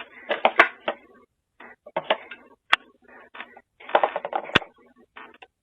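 Crunchy chewing: irregular bites of something crisp, with several sharp clicks among the crunches.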